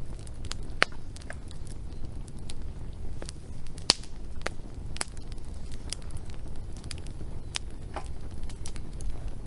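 Wood fire crackling: irregular sharp pops and snaps, the loudest about four seconds in, over a low steady rumble of burning.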